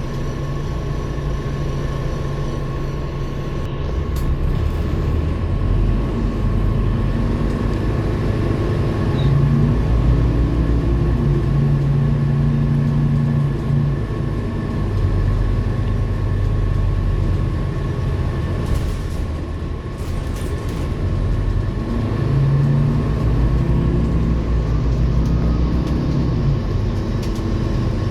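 Scania K230UB city bus's diesel engine running under way, its note rising and falling as the bus pulls away and accelerates several times, with a steady high whine running along underneath.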